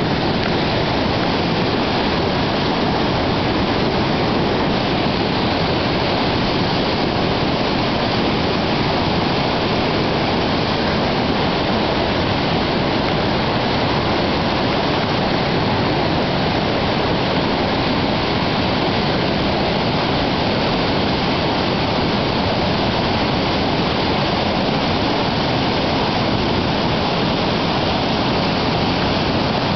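Whitewater rapids rushing in a loud, steady roar of water.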